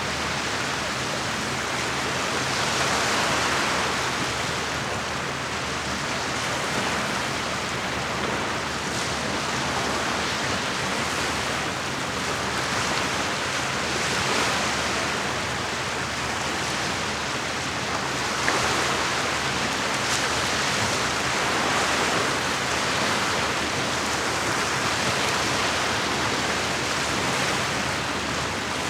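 Lake water washing against the shore: a steady rush of small waves that swells and eases every few seconds.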